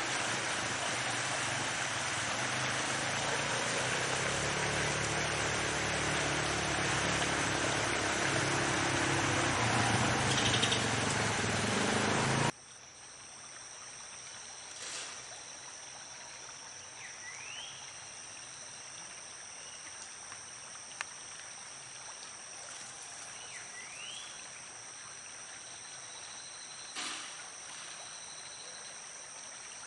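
For the first dozen seconds, a loud steady rushing noise with a low droning hum, which cuts off abruptly. Then a quieter dawn chorus: steady high insect trilling, with a bird giving a short rising call twice.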